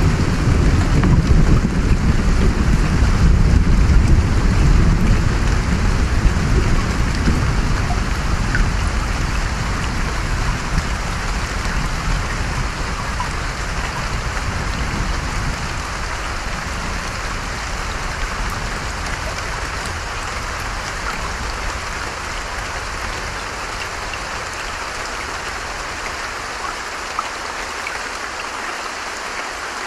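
Steady hiss of rain and running creek water, with a low rumble of thunder that fades away over the first half.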